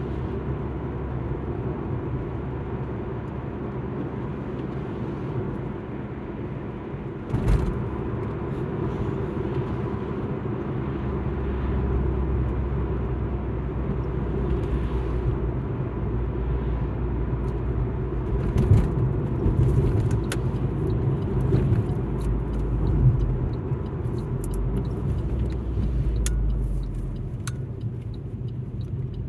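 Alfa Romeo MiTo on the move, heard from inside the cabin: a steady engine and road rumble. A sharp knock comes about seven and a half seconds in, and scattered short clicks follow later.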